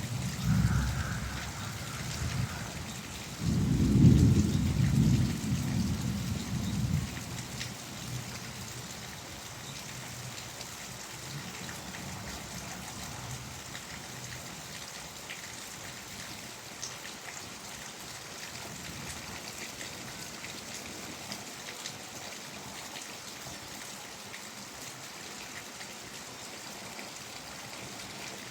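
Steady rain falling, with a low roll of thunder about four seconds in that lasts a few seconds and fades, leaving an even hiss of rain.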